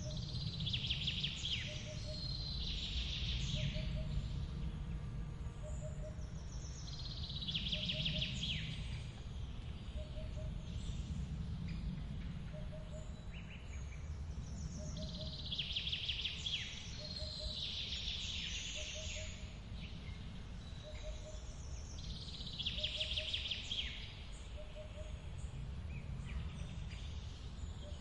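Steady low rush of a forest waterfall, with birds singing rapid trilling phrases every few seconds over it. A faint short note repeats at an even pace, about every second and a half.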